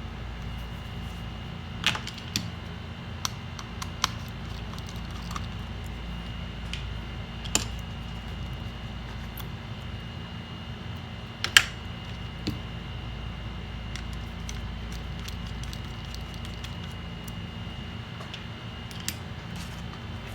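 Scattered small clicks and taps of small tools and parts being handled on a workbench during laptop disassembly, the loudest a little over halfway through, over a steady background hum.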